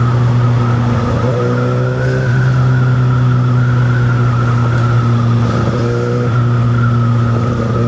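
Kawasaki ZX-6R inline-four sport bike engine running at a steady speed under the rider, its note holding nearly constant, with rushing wind and road noise.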